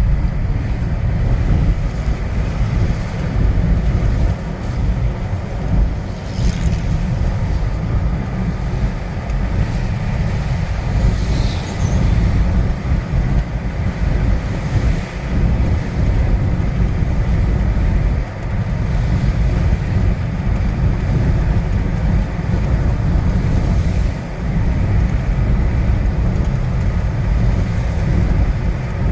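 Strong wind gusts buffeting the microphone: a loud, continuous low rumble that surges and eases.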